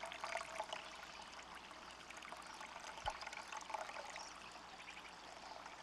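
Water trickling faintly and steadily, as from a small backyard pond waterfall, with one soft knock about three seconds in.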